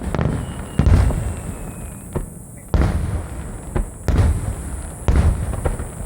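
Aerial firework shells bursting overhead: a series of deep booms about a second apart, each trailing off in a low rumble.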